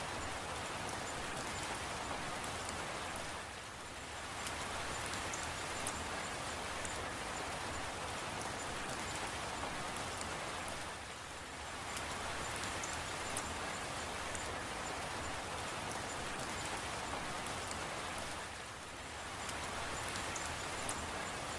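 Steady, even rain with scattered sharp drop ticks. It eases briefly three times, about seven and a half seconds apart.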